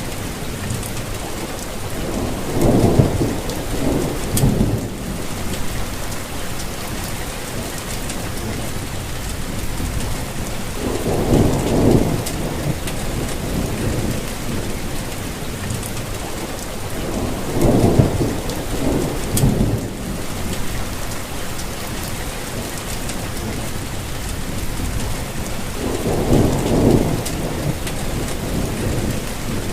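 Steady rain falling, with a low rumble swelling up briefly four times.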